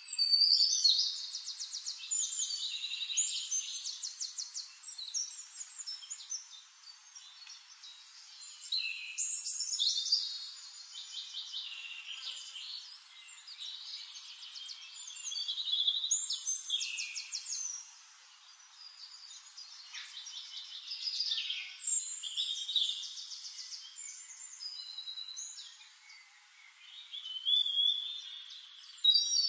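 Songbirds singing: rapid trills and whistled notes in phrases that swell and fade every few seconds.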